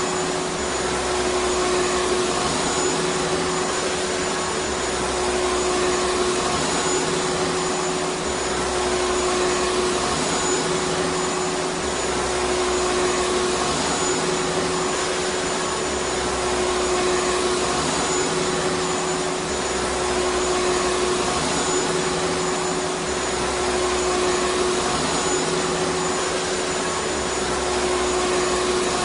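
Vacuum cleaner running steadily: an even rushing of air with a steady motor whine, and a low hum that swells and fades about every two and a half seconds.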